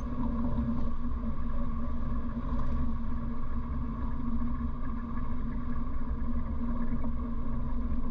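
1957 Morris Minor's 948cc A-series four-cylinder engine running steadily while driving, heard from inside the cabin as an even drone with low rumble and road noise. The engine note holds level, with no revving or gear changes.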